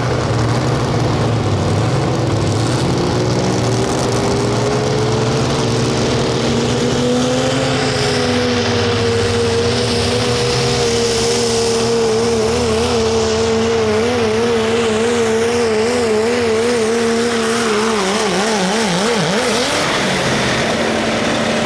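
Turbo-diesel pickup truck making a pull under full load: the engine note climbs over the first several seconds, then holds with a wavering pitch, and drops away about twenty seconds in before settling at a lower steady note.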